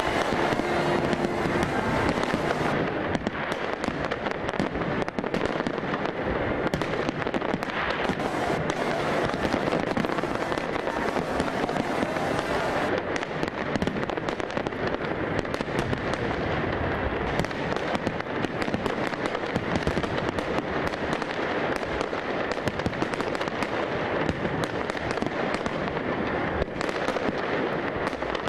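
Fireworks going off continuously: a dense, irregular stream of bangs and crackles with no let-up.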